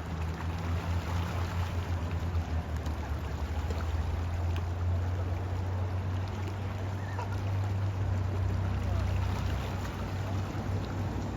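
Steady rush of flowing river water with a continuous low rumble underneath.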